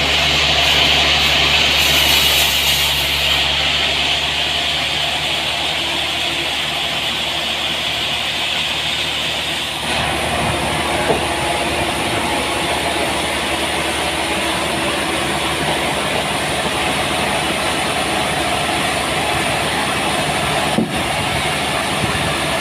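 Sawmill machinery running steadily while sawing a large trembesi log, its sound changing about ten seconds in. A single sharp click near the end.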